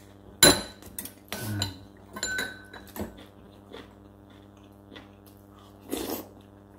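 Cutlery and dishes clinking and knocking several times during a meal, the loudest about half a second in, over a steady low hum.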